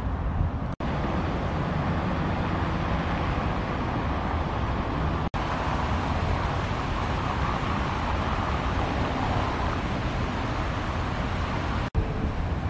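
Steady rumble and wind-like noise of a moving vehicle. The sound cuts out completely for an instant three times: once about a second in, once midway and once near the end.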